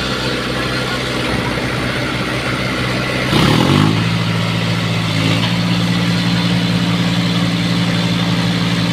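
Diesel tractor engine running steadily, revved up quickly a little over three seconds in and then held at higher revs.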